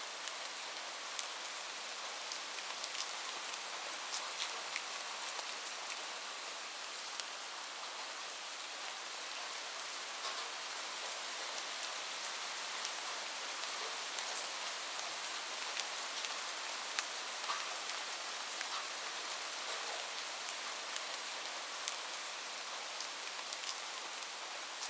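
Steady rain falling on a roof: an even hiss with many sharp, separate drop ticks scattered through it.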